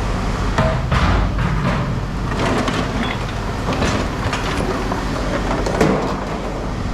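Machinery running with a steady low rumble, with scattered short metallic clanks and knocks.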